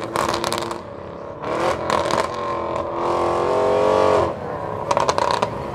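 Audi RS6 Avant's twin-turbo V8 accelerating away, its pitch rising between about two and four seconds in, with short bursts of crackling near the start and near the end.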